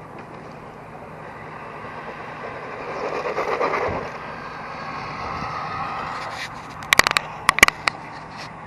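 Tamiya TT-01 radio-controlled race truck driving: its electric motor and gear drivetrain whine, swelling and easing with the throttle, with tyre noise under it. Near the end comes a quick run of sharp clacks.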